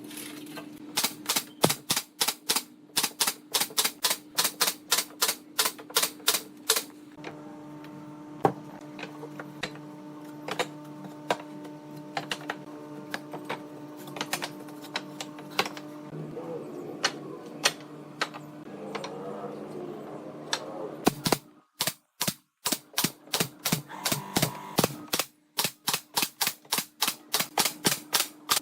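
Rapid runs of sharp clicks, about four a second, over a steady low hum. The clicks come in two fast runs with scattered single clicks between them.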